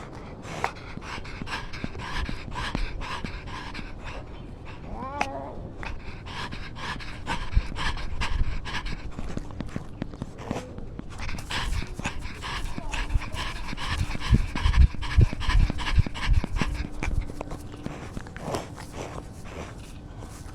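A cat panting in quick, even breaths, louder in the second half, with a brief high cry about five seconds in.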